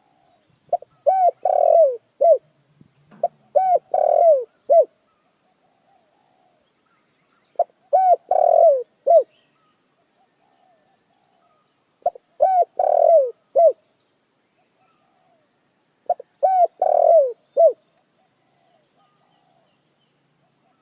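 Spotted dove cooing: five phrases about four seconds apart, each a run of about four low coos with the third one drawn out.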